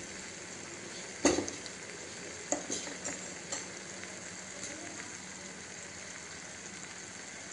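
Paneer and vegetables sizzling in a masala in a nonstick kadhai with a lump of butter added, a steady frying hiss. A few utensil knocks against the pan, the loudest about a second in, the rest a little later.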